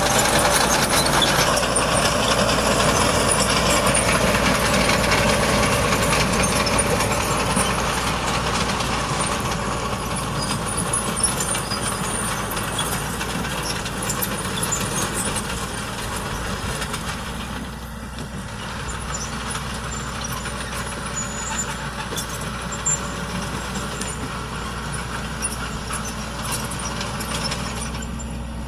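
Diesel engine of heavy earthmoving machinery running steadily, gradually getting quieter over the first two-thirds.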